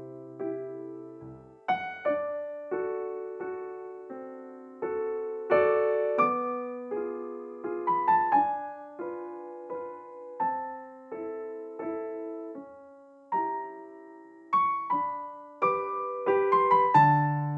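Background piano music: a gentle melody of separate struck notes over chords, each note fading after it is played.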